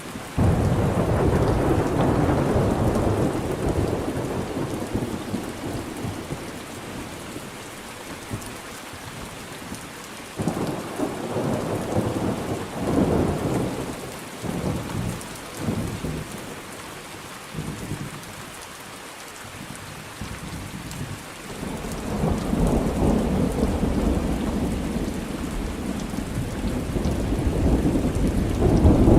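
Rain falling steadily through a thunderstorm. A sudden thunderclap about half a second in rumbles away over a few seconds, more rolling rumbles come in the middle, and a long rumble of thunder swells through the last third.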